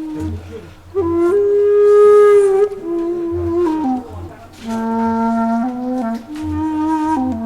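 Background music: a slow flute melody of long held notes with bends in pitch, over a soft low pulsing beat.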